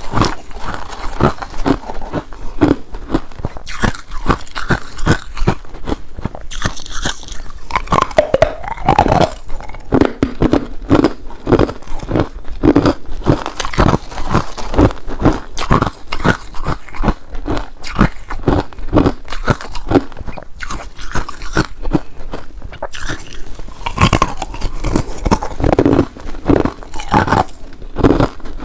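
Ice being bitten and chewed close to the microphone: a continuous run of loud, sharp crunches.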